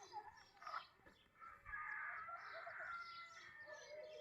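A rooster crowing once, faintly, in one long call through the middle, with small birds chirping throughout.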